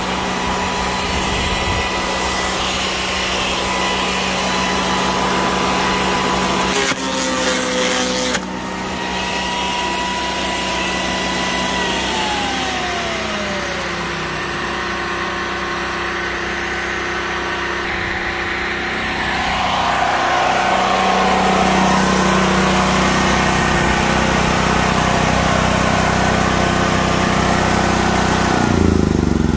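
Sun Joe CJ601E 14-amp electric wood chipper running steadily and shredding branches, with a louder burst of chipping about seven seconds in. A gasoline generator runs underneath as its power source, and near the end the chipper's motor winds down.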